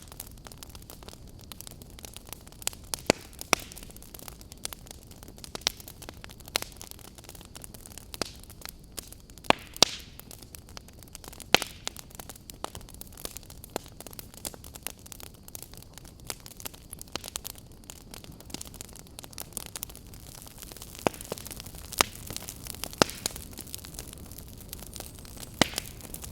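Log fire crackling: irregular sharp pops and snaps, a few much louder than the rest, over a steady low hiss.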